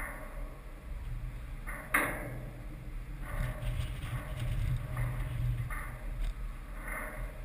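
Double-stack container freight train passing: steel wheels clacking over rail joints about once a second, over a steady low rumble. A single sharp clank about two seconds in is the loudest sound.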